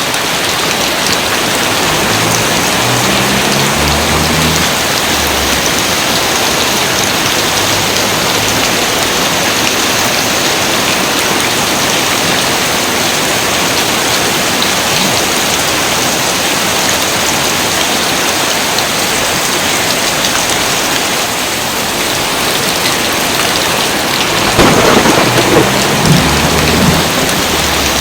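Steady, dense rain falling without a break, with thunder rumbling low a few seconds in and again near the end, where it is loudest.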